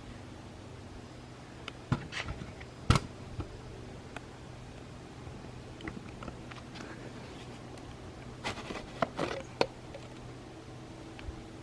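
Handling noises: a few sharp clicks and knocks, with a cluster of clicks and scraping near the end, over a faint steady hum.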